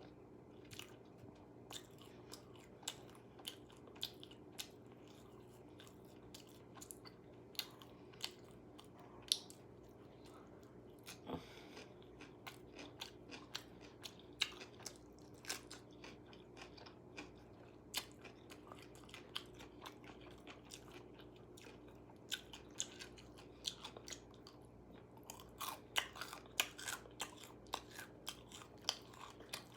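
A person biting and chewing crispy KFC fried food, a string of sharp separate crunches with a busier run near the end. A steady low hum lies underneath.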